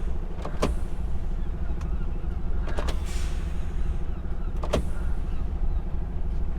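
HGV diesel engine idling steadily, heard from inside the truck cab, with a few sharp clicks and a short hiss about three seconds in.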